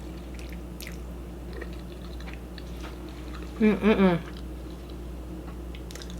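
Close-up chewing and faint mouth clicks of someone eating ramen noodles, with a short voiced 'mm'-like sound a little past halfway, the loudest moment, over a steady low hum.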